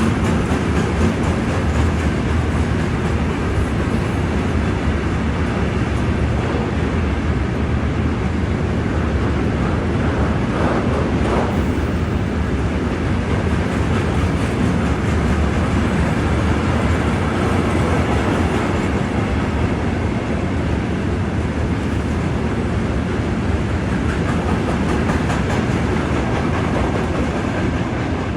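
Freight train rolling past, a loud, steady rumble and clatter of its wagons going by on the rails.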